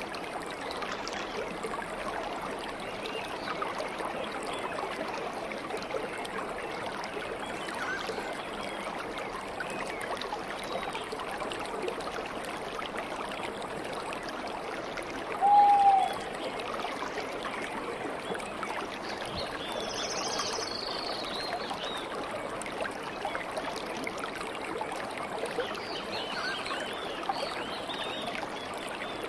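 A stream babbling and trickling steadily. Small birds chirp high-pitched now and then, mostly past the middle and near the end. A little past halfway comes one short, lower, louder call that dips in pitch.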